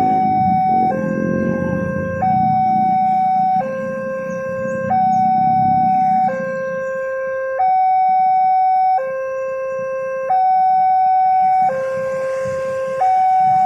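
Level crossing warning alarm sounding a steady two-tone pattern, a higher and a lower tone alternating about every second and a half. A low rumble underneath fades away by about halfway through.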